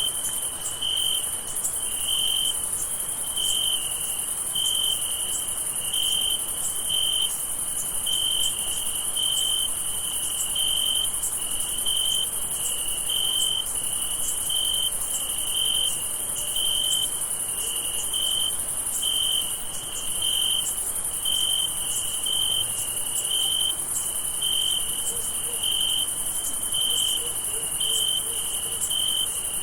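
Night insect chorus: a cricket chirping in even pulses about once every 0.8 seconds, over a steady, very high-pitched insect trill.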